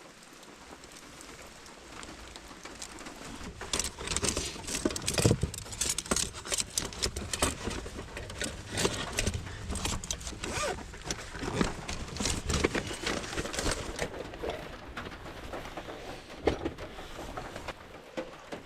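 Camping gear being handled and packed away: a busy run of irregular rustles, clicks and light clinks for about ten seconds, quieter at first and thinning out near the end.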